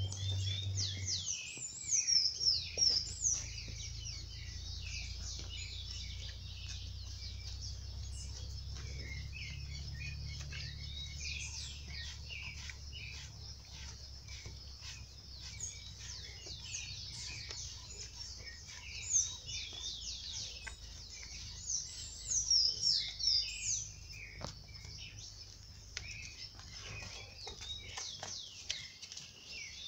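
Many small birds chirping busily, quick high chirps that come thickest near the start, about a third of the way in, and about three-quarters through, over a low steady rumble.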